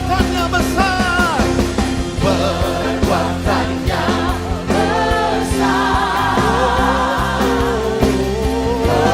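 Live worship-band music: steady bass notes and drums under a high melody line that bends and wavers.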